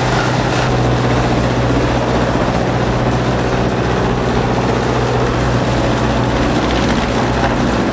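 Heavy industrial shredding machine running steadily: a loud, constant hum with dense grinding noise over it.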